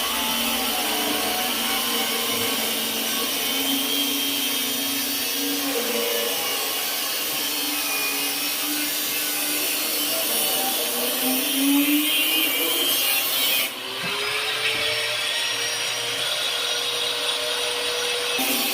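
Angle grinder running and working a piece, its motor whine wavering in pitch under the changing load. About fourteen seconds in the sound dips briefly, then the motor whine climbs steadily in pitch for a few seconds.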